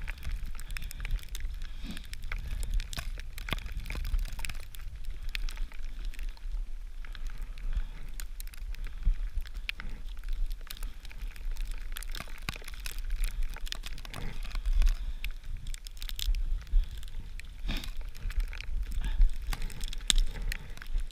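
Blizzard wind buffeting the microphone as a steady low rumble, with many irregular small crackles and clicks from close by.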